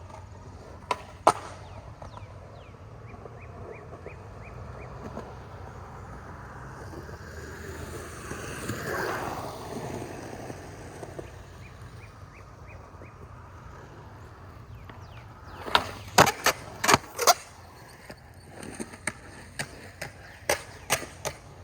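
Skateboard rolling, the wheel noise swelling to its loudest near the middle, with two sharp board clacks about a second in. About three-quarters of the way through comes a quick run of loud board clacks and slaps, then a few lighter clicks.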